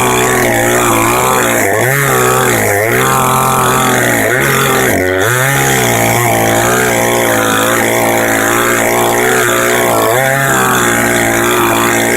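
Chainsaw cutting into a log. The engine pitch dips under load and recovers every second or two, steadier through the middle, with another dip near the end.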